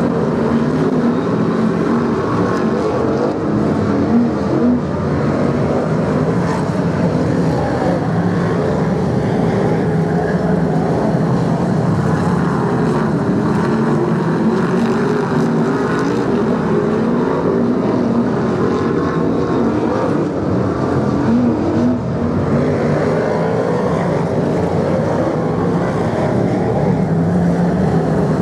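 A pack of BriSCA F1 stock cars racing, their V8 engines running hard together, with several engine notes overlapping and rising and falling as the cars lap.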